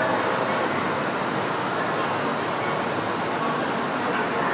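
Steady rushing noise of a Shinkansen train moving along the station platform, even throughout with no distinct knocks or signals.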